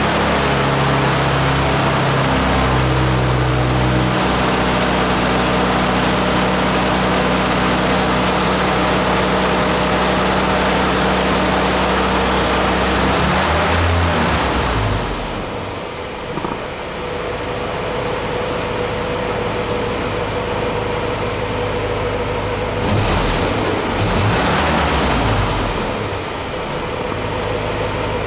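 1953 Willys CJ3A's four-cylinder L-head engine running while still warming up from a cold start. It runs at a raised speed, drops back to a lower speed about halfway through, and picks up briefly near the end.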